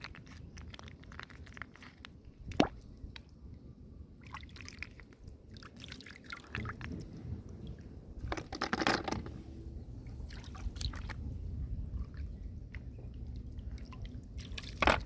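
Water dripping and splashing with wet squelching, from hands groping through shallow muddy floodwater. Scattered small clicks, one sharp click about two and a half seconds in, and a longer splash near the middle.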